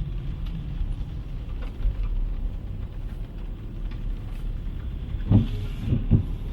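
Street ambience with a steady low rumble of car traffic, and two short, louder low thumps near the end.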